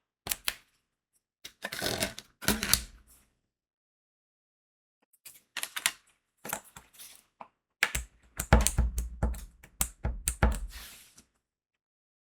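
Crystal diamond-painting drills and tools clicking and rattling in quick clusters. There is a dense spell about two seconds in, a few scattered clicks in the middle, and a longer busy spell with dull knocks from about eight to eleven seconds.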